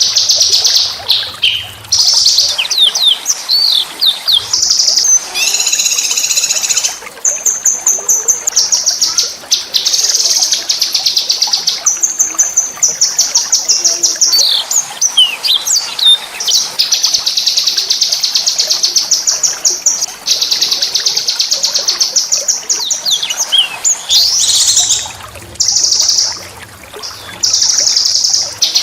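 Small songbirds singing fast, high rolling trills of rapidly repeated notes, broken by quick swooping whistles; the song is harsh-toned but sweet.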